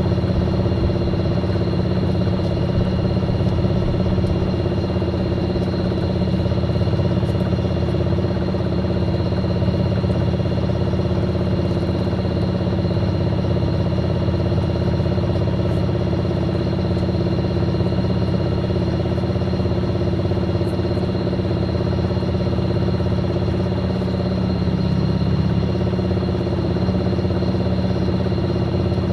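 Fisher & Paykel MW059 washing machine spinning, an even, unbroken hum with thin high whining tones over it and no agitation rhythm.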